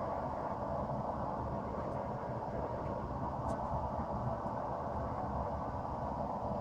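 Blacksmith's forge running with a steady rushing noise, with one faint tick about halfway through.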